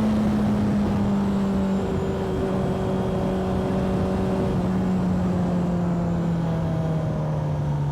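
Motorcycle engine running under way, its note falling slowly and steadily as the bike slows, with wind rush over it.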